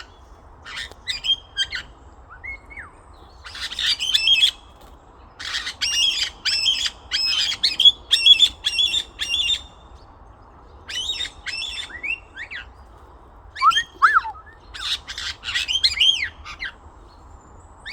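Macaws calling in bursts of short, harsh squawks, several in quick succession, with pauses of a second or two between the bursts.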